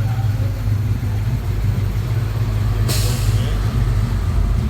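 Plymouth 'Cuda's 340 V8 rumbling at low speed as it rolls past, with a short hiss about three seconds in.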